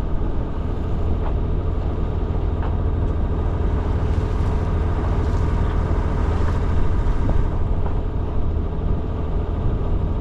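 A boat's engine running steadily while motoring, a constant low hum.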